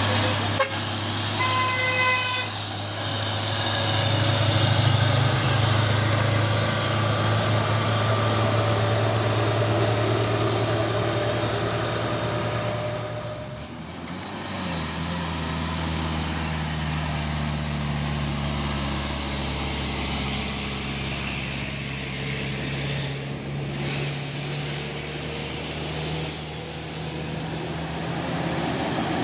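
Heavy diesel truck engines running steadily under load, with a short horn toot about two seconds in. The engine note changes about halfway through.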